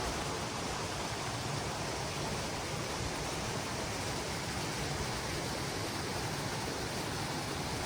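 Steady rush of a creek's flowing water, an even hiss with no breaks.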